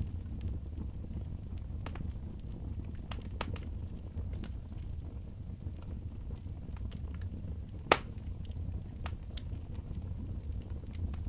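Wood fire crackling over a low steady rumble, with scattered small pops and one sharp, loud pop about eight seconds in.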